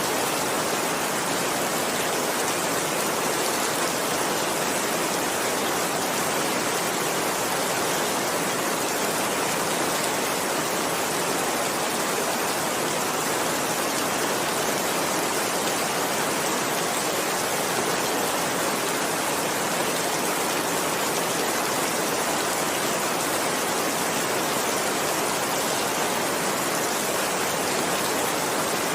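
Steady heavy rain: an even, unbroken hiss of downpour.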